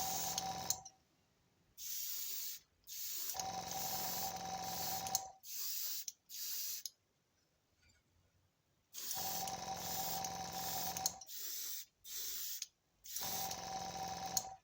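Spray paint hissing out of an aerosol can in about eight bursts, some short and some two seconds or more long, as a metallic blue colour coat is sprayed onto a die-cast model; a steady whistle-like tone sounds through the longer bursts.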